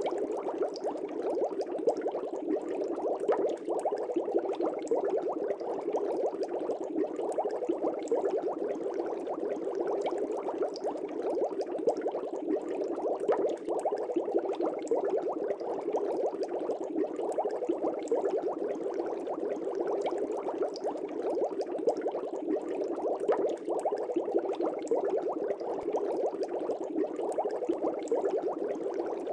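Air bubbles streaming steadily through the water of a fish tank, a continuous bubbling made of many small bubbles.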